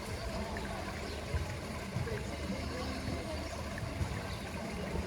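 Steady poolside water sound, trickling and lapping.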